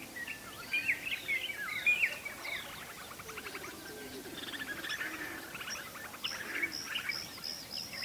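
Several birds chirping: short chirps and gliding whistled notes at first, then fast trills, over a steady background hiss.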